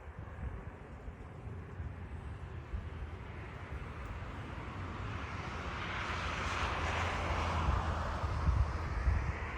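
Jet airliner's engines passing by. The rushing noise swells to its loudest about two-thirds of the way through and then eases off, over a steady low rumble.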